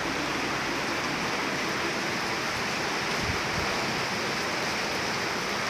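Steady, heavy rain falling: a dense, even hiss with no let-up.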